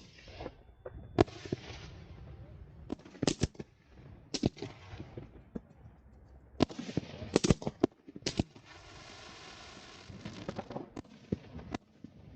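Fireworks going off at a public display: a string of sharp bangs from shells bursting, some in quick pairs, each with a rolling echo. About two thirds of the way through comes a steady hiss lasting about two seconds, then a few lighter pops.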